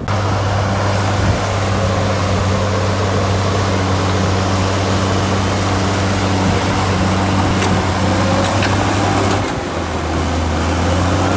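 Heavy diesel engine of an earthmoving machine running steadily at an even, low pitch, briefly dropping in level about nine and a half seconds in before carrying on.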